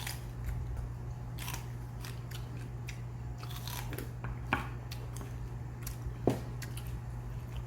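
Eating sounds: scattered light clicks of utensils against dishes and chewing, with two sharper knocks about two seconds apart, over a steady low hum.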